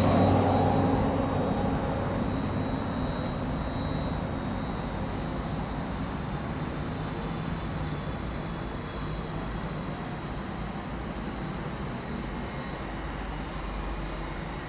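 A train moving away, its low rumble fading over the first few seconds and then going on steadily at a lower level.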